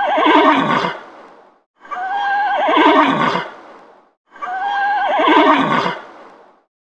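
Horse whinnying three times, the same call repeated about every two and a half seconds; the first is already under way at the start. Each begins with a high, steady note and breaks into a quavering neigh that falls in pitch.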